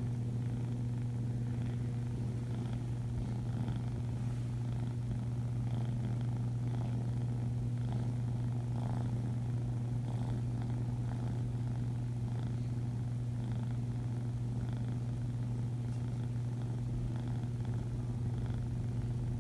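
Kitten purring steadily, close to the microphone.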